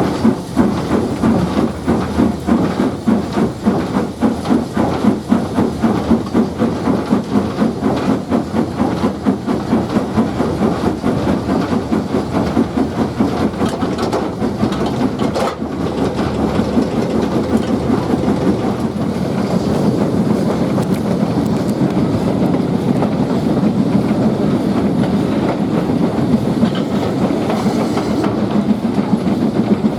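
Steam locomotive working a train, its exhaust beats in a quick even rhythm that speeds up until they blur into a steady sound in the second half.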